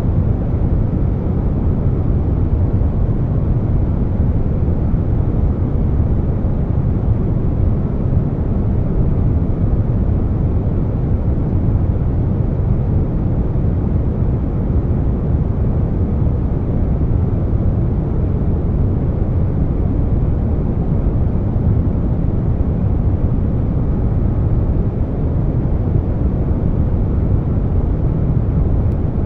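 Air conditioner running steadily, mixed with brown noise: a constant deep rushing hum, heaviest in the low end, with no changes.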